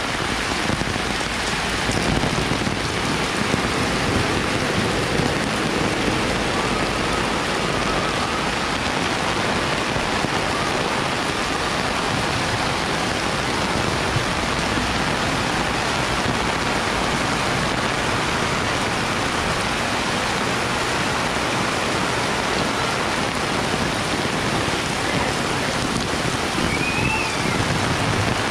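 Heavy rain falling in a steady, dense hiss without letup.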